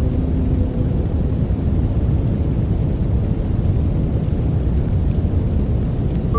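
Steady, deep rushing noise of a white-noise sleep soundscape, heavy in the low end like distant rain and thunder. A faint held tone fades out in the first second.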